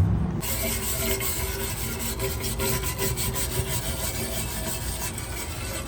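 Rapid, scratchy scrubbing by hand, an abrasive or brush worked back and forth over a part to clean it. It starts abruptly about half a second in.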